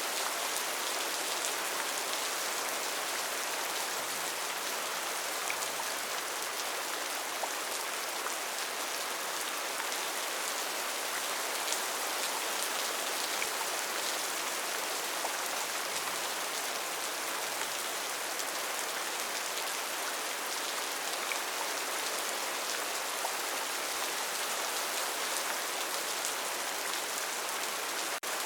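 Steady rain falling: an even hiss with faint ticks of single drops scattered through it.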